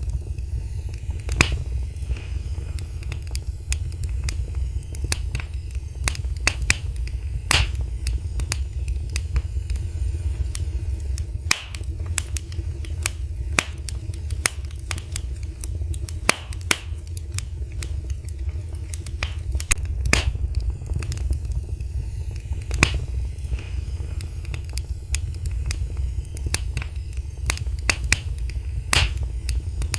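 Wood fire in a fireplace crackling, with irregular sharp pops of varying loudness over a steady low rumble.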